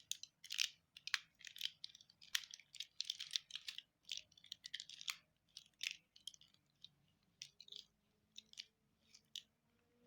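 Plastic snake cube (Rubik's Twist) being twisted straight by hand: a run of irregular, quick plastic clicks and rattles as its wedge pieces turn at their joints, thinning out over the second half.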